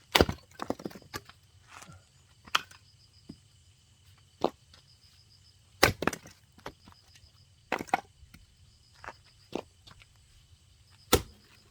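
Axe chopping firewood: four heavy blows a few seconds apart, one near the start, two in the middle and one near the end, with lighter knocks and cracks of wood between them. The log is a hard one to split and takes several strikes.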